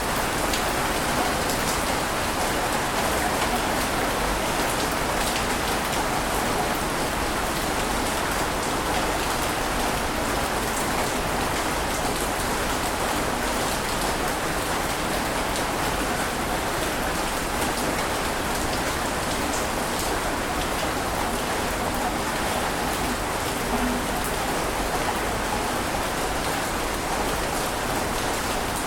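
Steady rain falling: a continuous even hiss dotted with fine ticks of individual drops.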